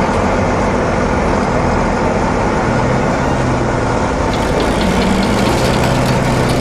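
A heavy truck engine sound effect, running steadily with a low, even hum.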